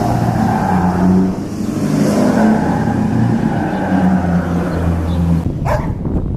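A car engine running with a low, steady hum that shifts in pitch a few times, then cuts off about five seconds in. A dog barks a couple of times near the end.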